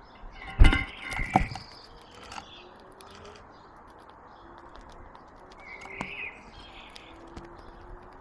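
Small garden birds chirping in short calls, the clearest about a second in and again about six seconds in. Two loud knocks come about half a second and a second and a half in.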